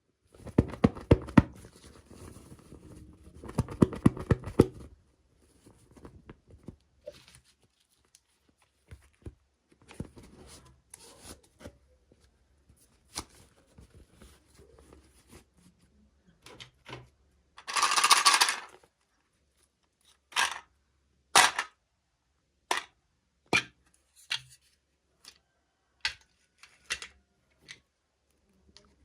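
Plastic toy packaging and small doll pieces being handled: dense crinkling and rustling for the first five seconds, then scattered sharp clicks and taps. About eighteen seconds in there is a louder, one-second rasp, like packaging being torn or peeled.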